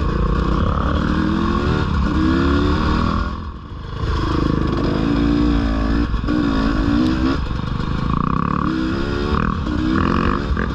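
Dirt bike engine running under load on a trail ride, its pitch repeatedly climbing as the throttle is opened and falling back between, with a brief lull about three and a half seconds in.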